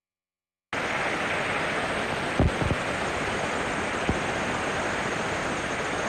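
Noise-music wash: after a moment of dead silence, a steady dense static-like hiss cuts in and holds, with a few low thuds near the middle.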